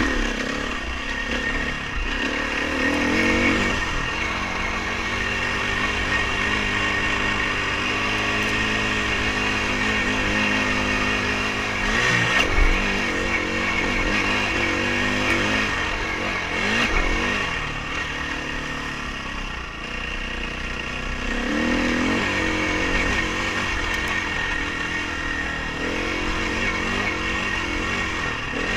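Dirt bike engine running under load while riding, its pitch rising and falling as the throttle opens and closes, with a sharp knock about twelve seconds in.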